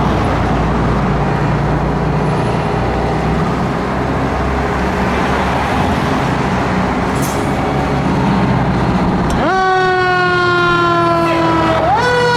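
Fire truck on an emergency response: engine and road noise with a low rumble, then about nine and a half seconds in its siren sweeps sharply up, falls slowly over a couple of seconds, and rises again near the end.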